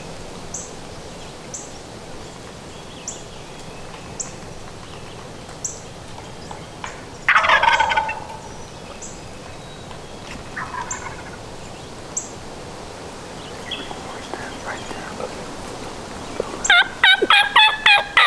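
Wild turkey gobbler gobbling loudly about seven seconds in, again more faintly a few seconds later, then a quick run of short yelping notes near the end.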